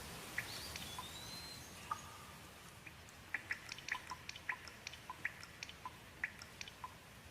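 Rain dripping: scattered sharp, pitched plinks of drops, sparse at first and coming thick in the second half, over a faint steady hiss. A single whistled glide sounds about half a second in.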